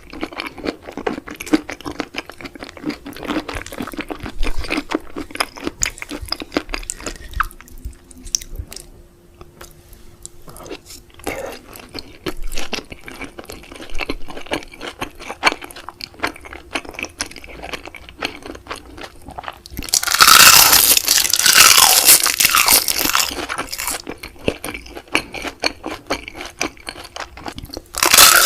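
Close-miked chewing and biting of seafood, with wet crunching and crackling throughout, a quieter spell about eight seconds in and a louder, dense stretch of crunching about twenty seconds in.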